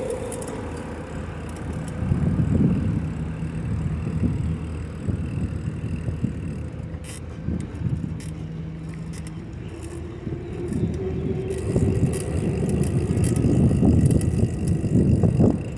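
Bike riding over bumpy pavement: a rumble from the wheels with rattling and clatter over the bumps, louder for a while about two seconds in and again near the end.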